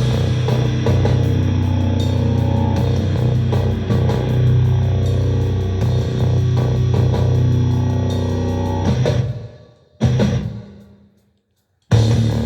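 Instrumental rock music with guitar, bass guitar and drums. It fades out about nine seconds in; one brief hit follows at about ten seconds, then a second of silence before the music comes back in near the end.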